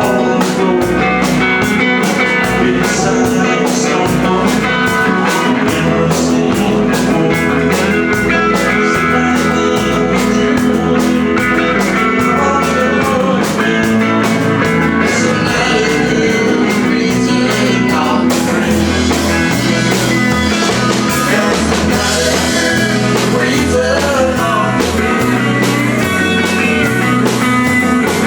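Live country-rock band playing, with electric guitar, bass and drums. The drums keep a fast, steady beat that changes about two-thirds of the way through.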